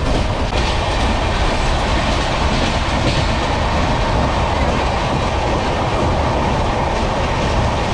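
Passenger train running at speed: a steady rumble with wheels clattering over the rail joints.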